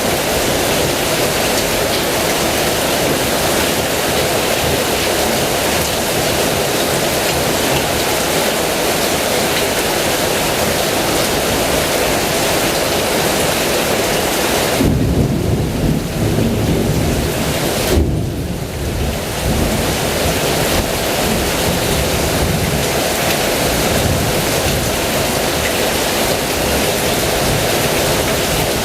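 Heavy rain falling steadily, with a low roll of thunder about halfway through that peaks in a sudden clap before fading back into the rain.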